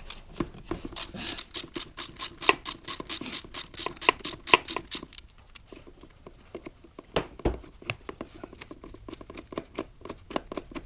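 Ratchet wrench clicking quickly as it backs out a 13 mm AC compressor bolt, about five clicks a second, then slower, fainter clicks near the end as the bolt comes loose.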